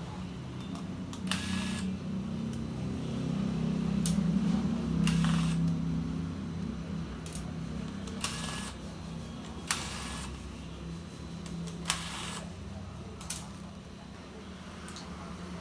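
Scattered sharp clicks and short scrapes of small tools and plastic laptop parts being handled during disassembly, about one every second or two, over a low steady hum that swells briefly a few seconds in.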